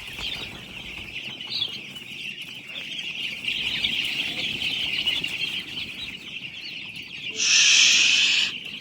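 A dense chorus of many day-old broiler chicks peeping continuously. Near the end a loud rush of noise lasting about a second rises over it.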